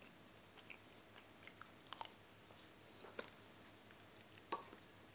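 Faint chewing of meatballs and jollof rice: a scatter of soft mouth clicks, the loudest about four and a half seconds in.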